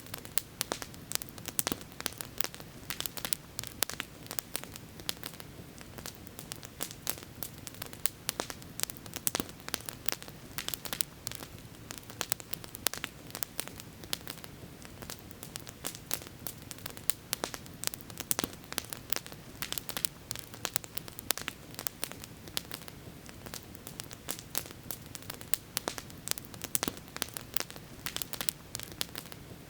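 Campfire crackling continuously with many small, irregular pops and snaps over a low, steady background rush.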